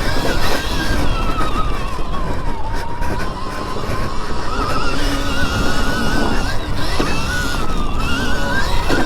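Dirt bike being ridden on a motocross track, its motor whining high and rising and falling with the throttle, over heavy wind rumble on the microphone.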